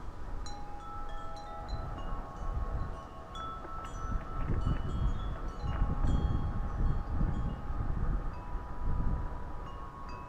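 Wind chimes struck repeatedly by the wind, their tones overlapping and ringing on. Gusts of wind rumble on the microphone through the middle stretch.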